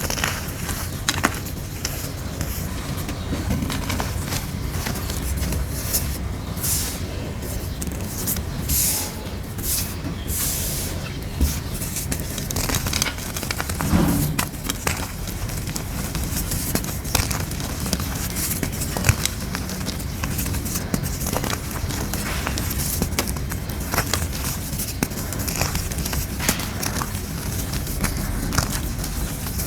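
Moulded grey gym chalk being crushed and crumbled: a dense, irregular run of crunches and crackles, with a louder crunch about halfway through.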